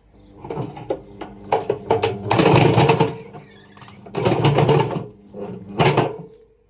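Washing machine running with weights loose in its drum: loud bursts of banging and rattling over a steady motor hum, as the weights are flung around the turning drum, the heaviest clatter about two seconds in and again near four seconds.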